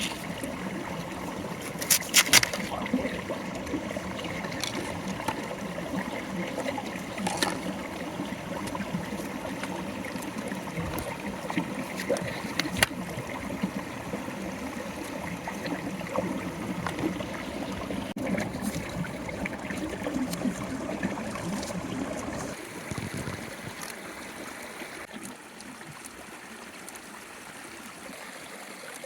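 Running water, like a small stream, with a few sharp clicks or knocks over it. It becomes quieter and thinner near the end.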